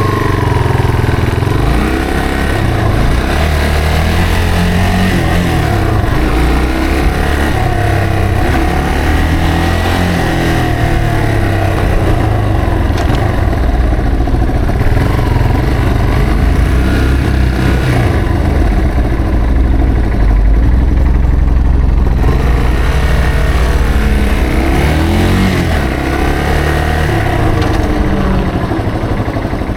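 Yamaha TW225's single-cylinder four-stroke engine running under way. Its pitch rises and falls several times as the bike accelerates, shifts and slows.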